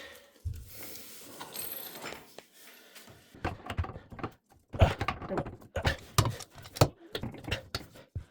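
Irregular metallic clicks and knocks of hand tools working on the nut and supply-hose fittings under a sink, coming thick and fast from about three seconds in.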